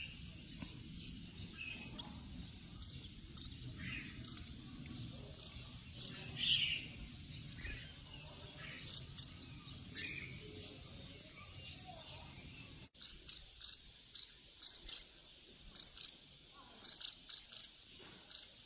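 Young munias giving short, high chirps, scattered at first and then repeated about once or twice a second, over a faint steady high hiss of insects.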